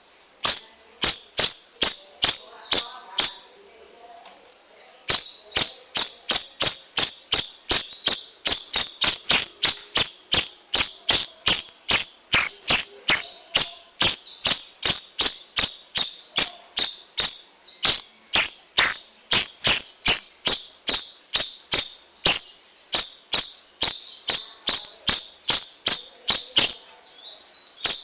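Cucak rawis bird calling in a fast, unbroken run of sharp, high chip notes, about three to four a second. It pauses about three seconds in, then resumes at about five seconds.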